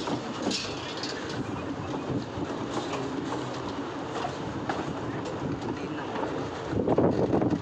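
Saryu Yamuna Express passenger train running along the track: a steady rumble and rattle of the coaches, growing louder near the end.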